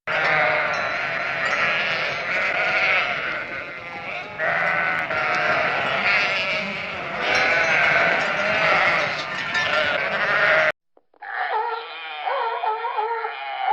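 Many sheep bleating at once, with overlapping wavering calls. About eleven seconds in, the sound cuts off abruptly, and after a moment a separate recording of wavering bleats begins.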